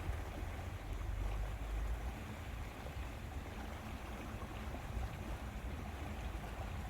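Lakeside outdoor ambience: steady wind buffeting the microphone as a low, uneven rumble, over the wash of lake water.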